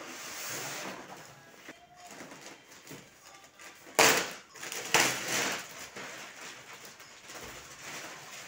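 Packaging being handled: faint rustling, with two sudden louder rustling bursts about four and five seconds in.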